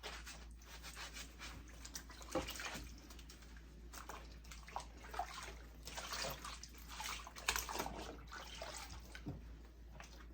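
Faint, irregular sloshing and dripping of water in a sink as a wig is handled in conditioner water.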